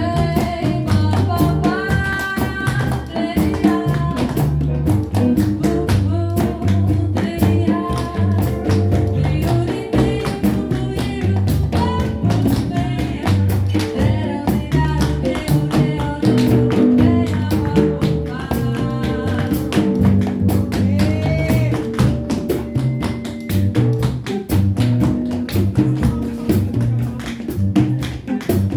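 Tap shoes tapping quick rhythms on the floor over live jazz played by guitar, double bass and drums.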